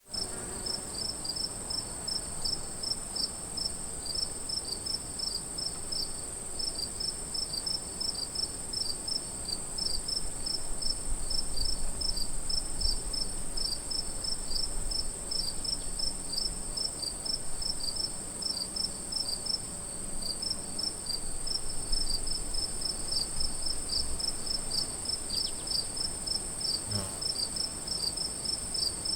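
Crickets chirping in an afternoon chorus: a steady high trill with rhythmic chirps layered over it, about three or four a second.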